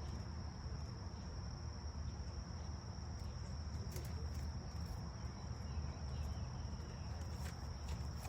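Insects trilling in a steady high-pitched chorus over a low, constant rumble, with a few faint ticks.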